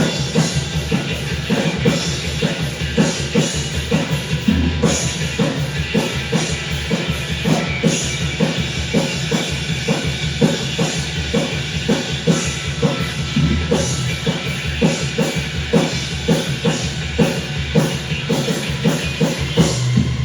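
Rock music with a drum kit keeping a fast, steady beat.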